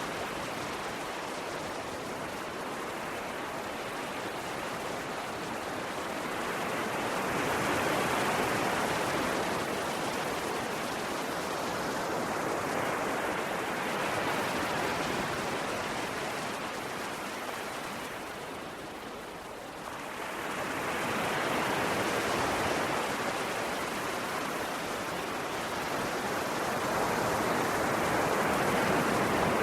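Ocean waves washing ashore, a steady rush of surf that swells and eases over several seconds, with a dip about two-thirds of the way through before the next wave builds.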